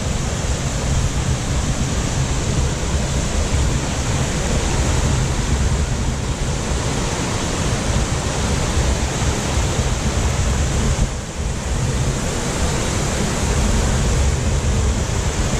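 Steady rushing roar of a waterfall close by, with wind buffeting the microphone as an uneven low rumble. There is a brief dip in level at about eleven seconds in.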